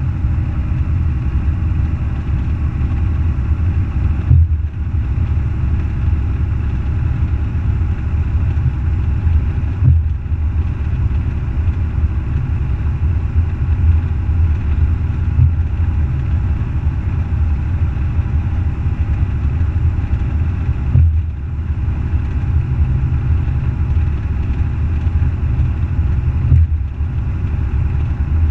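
Semi truck's diesel engine running, a steady low rumble that dips briefly four times.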